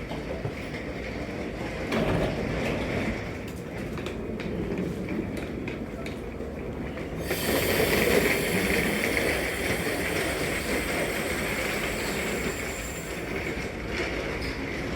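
V-set electric intercity train moving through the station, its wheels clicking over the rail joints over a steady rumble. A loud hiss starts suddenly about seven seconds in and fades near the end.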